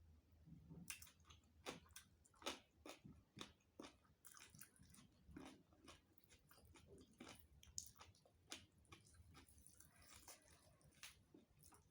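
Close-miked eating sounds: a person chewing and biting a rice-and-curry meal, with irregular wet clicks and soft crunches.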